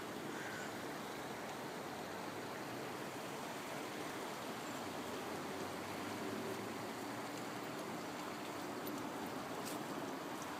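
Steady rushing of a river in flood, running high over its banks.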